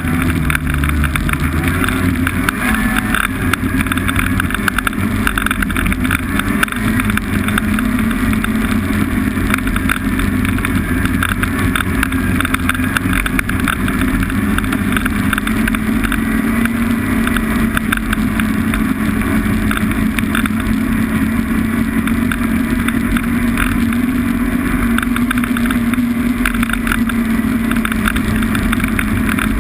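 Snowmobile engine running at a steady, moderate pace, its pitch holding level.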